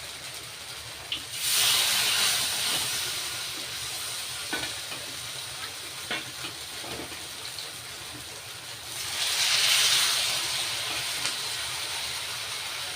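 Rice-flour-battered pumpkin flower fritters frying in hot oil in a kadai, a steady sizzle that surges loudly twice, about a second and a half in and again about nine seconds in, as fritters go into the oil. A few light clicks of the utensils between.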